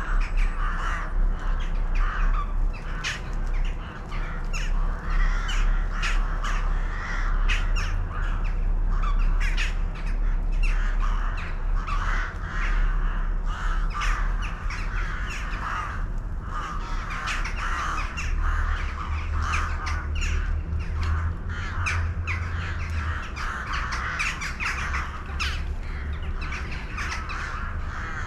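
Many birds calling at once, a continuous chorus of harsh, overlapping calls with frequent sharp clicks, over a steady low hum.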